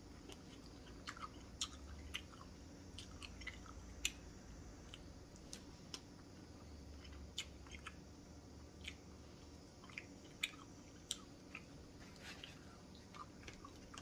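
A person chewing food, with faint wet mouth clicks and smacks at irregular intervals.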